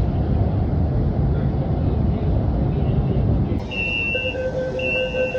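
Low, steady rumble of a Lagos Blue Line electric train running. About three and a half seconds in it gives way to an electronic warning signal: a high tone sounding twice over a steady lower tone.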